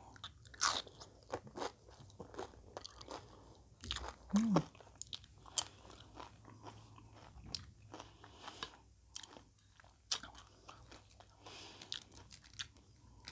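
Loaded nacho tortilla chips crunched and chewed close to the microphone, in irregular crisp crunches. A brief vocal 'mm' from the eater about four and a half seconds in.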